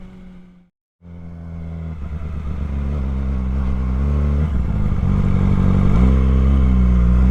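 Yamaha R6's inline-four engine pulling away and accelerating, getting louder. Its pitch climbs and then drops at gear changes, about four and a half and six and a half seconds in. The sound cuts out completely for a moment a little under a second in.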